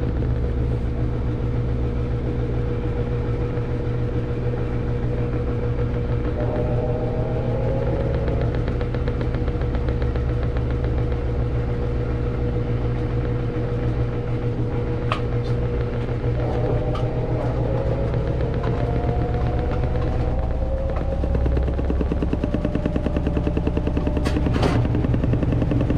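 Samsung washing machine in its spin cycle: the motor and drum run with a steady low hum, and a whine rises in pitch twice as the drum speeds up. A couple of brief clicks sound near the middle and near the end.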